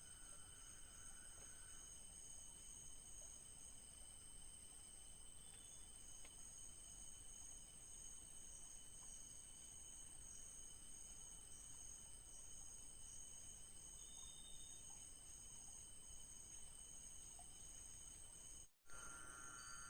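Faint night insects, crickets and similar, trilling steadily in several high pitches, one of them pulsing. Everything cuts out for a moment near the end.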